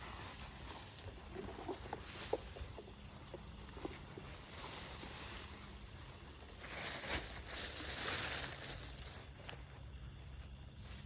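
Footsteps and rustling through undergrowth, with scattered light clicks. A faint, high, steady trill runs underneath.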